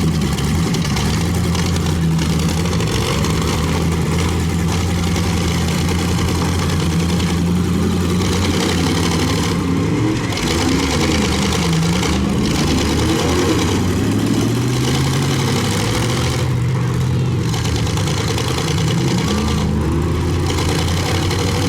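Several demolition derby pickup trucks' engines running at once, overlapping, their pitches rising and falling as they rev and ease off.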